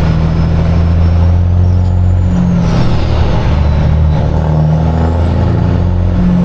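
Heavy diesel semi-truck engine idling steadily, with a faint high whine rising and falling above it.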